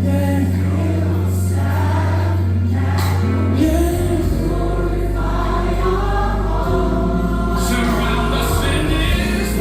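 Gospel choir singing with instrumental accompaniment, over sustained low bass notes that change pitch every few seconds.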